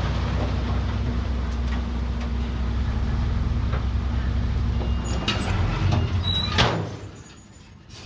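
Komatsu D31PX bulldozer's diesel engine running steadily at a low, even pitch, with a few sharp knocks about five to six and a half seconds in. The engine sound drops away abruptly near the end.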